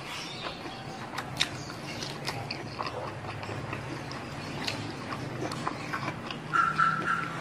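Close-miked chewing and mouth sounds of eating rice and chili-coated squid by hand, with small wet clicks and crackles. Near the end a short run of loud, evenly repeated high-pitched animal calls cuts in.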